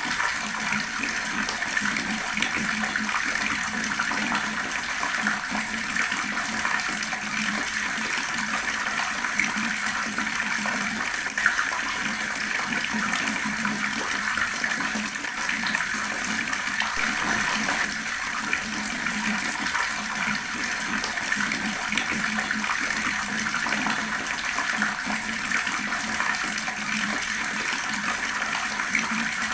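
Water running steadily from a tap, splashing and gurgling without a break.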